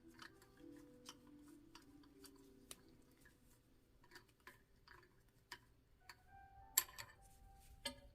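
Faint, scattered light clicks and small knocks of handling noise during bench work, with two sharper clacks near the end.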